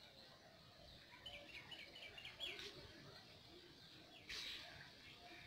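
Faint bird call: a quick run of about seven short, high chirps, ending in a sliding note, beginning about a second in. A brief burst of noise follows a little after four seconds.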